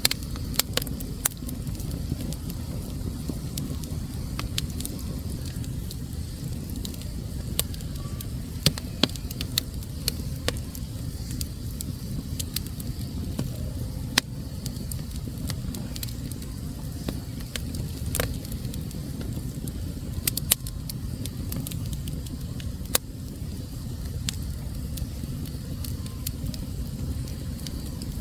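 Wood fire burning in a fireplace: a steady low rumble with frequent sharp crackles and pops scattered irregularly throughout.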